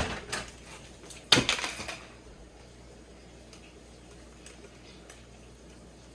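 Two sharp clattering knocks, one at the start and a louder one about a second and a half in, each ringing briefly, then low steady room noise.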